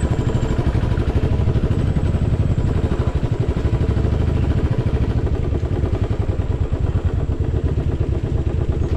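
Royal Enfield motorcycle engine running steadily under way, its rapid low exhaust pulses continuing without a break.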